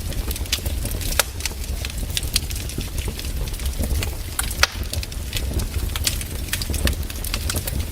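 Wood fire crackling in a fireplace: irregular sharp pops and snaps scattered through, over a steady low rumble of the burning.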